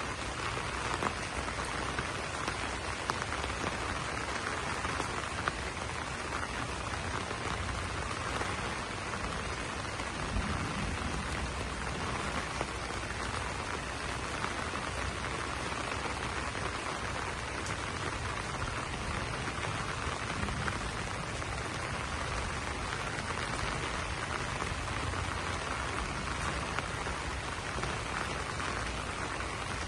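Steady rain falling on broad banana leaves, a constant hiss with occasional louder individual drops.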